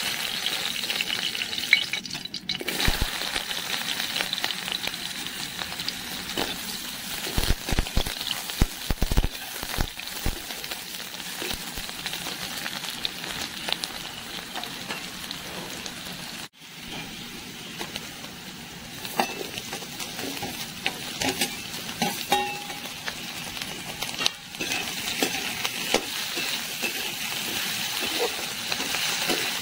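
Dried red chillies, sliced onion, green chillies and potato sticks sizzling in hot oil in a metal wok, with the clicks and scrapes of a slotted metal spatula stirring them against the pan. The sizzle breaks off briefly about halfway.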